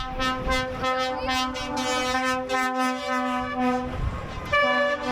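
Vehicle air horn sounding one long, steady blast of about four seconds, then, after a short break, further horn blasts near the end.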